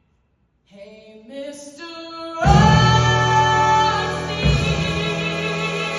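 A woman singing a show tune, her voice stepping upward through a few notes. About two seconds in, loud accompaniment chords come in with heavy low notes beneath a held note, and another low hit follows near the end.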